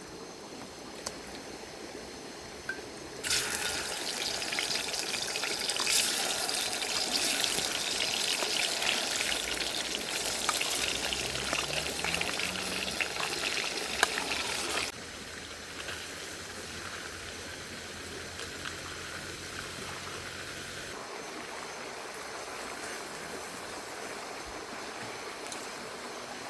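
Chicken pieces dropped into hot oil in a pan, sizzling loudly from about three seconds in and cutting off sharply about twelve seconds later, after which a softer steady hiss remains.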